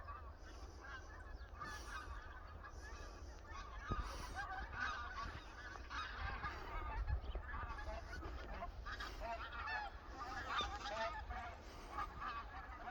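A flock of wild geese honking, many calls overlapping in a continuous chorus, over a steady low rumble.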